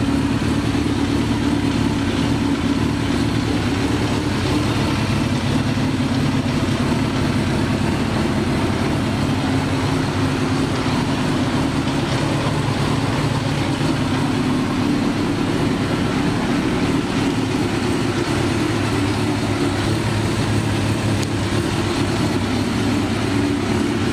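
Suzuki GSX-R1000's inline-four engine idling steadily, with no revving.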